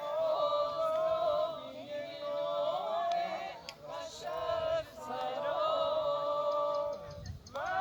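A single high voice singing unaccompanied, holding long, slightly wavering notes in several phrases with short breaths between them.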